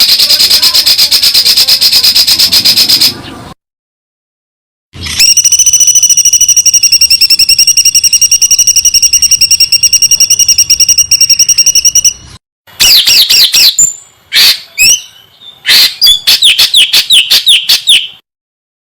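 Songbird singing very rapid, high-pitched trills of fast repeated notes in three bursts with short silences between. The first two are buzzy trills, the second holding a steady pitch for about seven seconds, and the last, from about halfway in, is a broken series of quick falling whistled notes.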